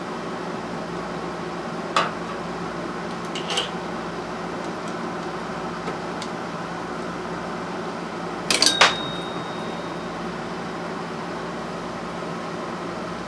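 Metal clinks of hand tools against metal parts over a steady background hum. There is a sharp clink about two seconds in and a softer one a little later. A louder cluster of clinks near nine seconds is followed by a brief metallic ring.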